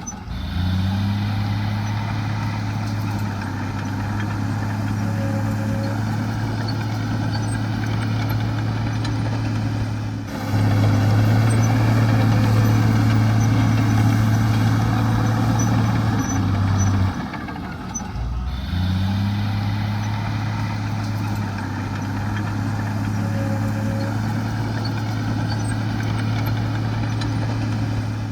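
Heavy diesel earthmoving machinery running steadily with a low engine hum. The sound becomes louder about ten seconds in, drops back around seventeen seconds and breaks off briefly near eighteen seconds before the steady running resumes.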